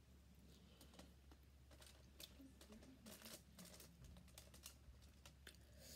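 Faint, irregular wet clicks of chewing and lip smacking as stewed conch and rice are eaten with the fingers.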